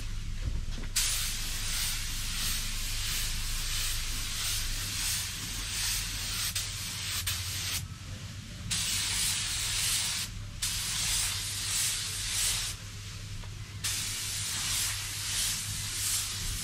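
Compressed-air paint spray gun hissing in long passes, stopping briefly between them as the trigger is released, over a steady low hum.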